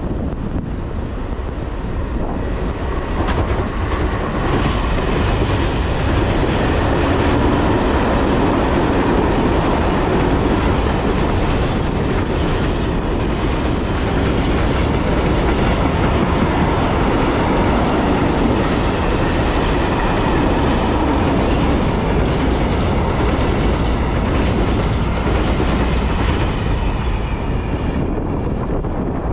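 Freight train passing at speed: a steady rumble of wagons with wheels clattering over the rail joints. It grows louder over the first few seconds and eases off near the end.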